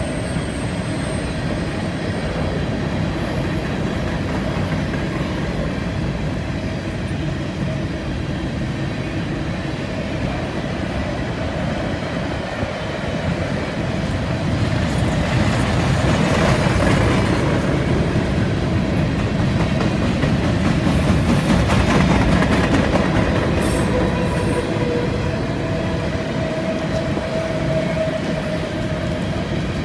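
Covered hopper cars of a CN freight train rolling past on a curve: a continuous rumble and clatter of steel wheels on the rails, swelling louder through the middle. Faint steady wheel squeal from the curve comes in near the end.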